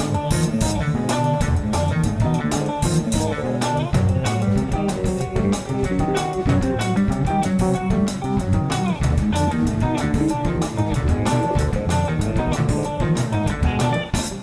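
Instrumental passage of a band song without vocals: guitars over bass guitar and a steady drum-kit beat, the drums dropping out near the end.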